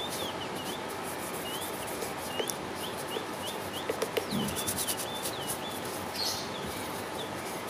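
A bird chirping over and over in short, high, thin notes, about two or three a second, over a steady hiss, with a few light clicks from handling.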